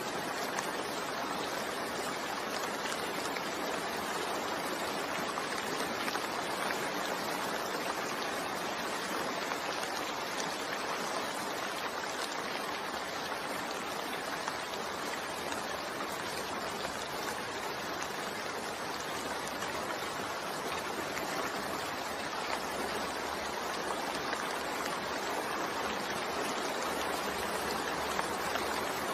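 Steady rain falling, a continuous even hiss of rainfall with no distinct drops or breaks.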